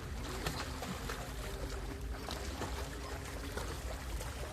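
Sea water splashing and lapping, with wind rumbling on the microphone and a faint steady hum in the background.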